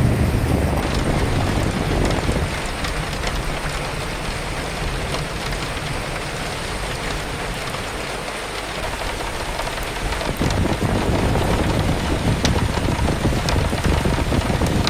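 Steady rain with gusting wind: a low wind rumble eases after about two seconds and comes back strongly about ten seconds in, with scattered raindrop taps throughout.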